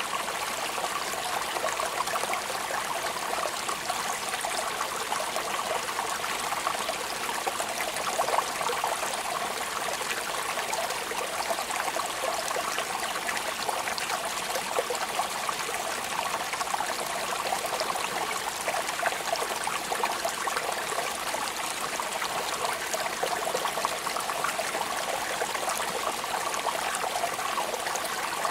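Steady rain falling, a dense, even hiss of many small drops that keeps up without a break.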